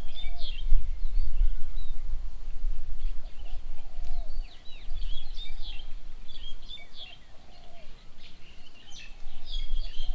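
Several birds chirping and calling at a bird table: a busy run of short, high chirps and quick falling notes, with some lower arched calls mixed in, over a steady low rumble.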